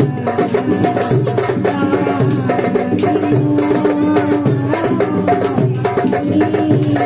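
Marawis ensemble playing: hand-beaten frame drums keep a quick, steady rhythm under a held, gently wavering melody line.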